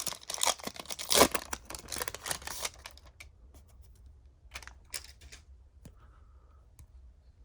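Trading cards and pack wrapper being handled: dense crinkly rustling for about three seconds, then a few scattered light clicks and rustles.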